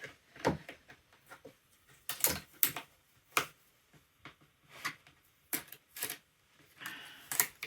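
Hands at work on embroidered beanies and their hooping or backing, making irregular sharp clicks and taps with a short rustle near the end.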